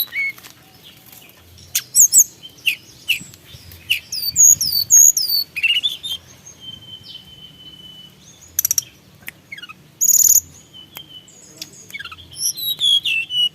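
A tledekan gunung songbird singing a varied song of short high chirps and quick downward-swept whistles, with one long steady whistle about halfway and two rapid rattling trills after it.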